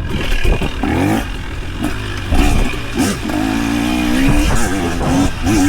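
Off-road vehicle engine revving up and down, its pitch rising and falling and held steady for about a second midway, with a few sharp knocks.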